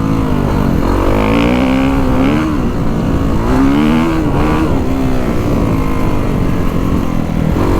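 2022 Kawasaki KX450SR's single-cylinder four-stroke motocross engine revving up and backing off: the pitch rises and falls twice in the first half, then runs steadier at part throttle. The rider is blipping it to feel the throttle response and engine braking on and off the gas.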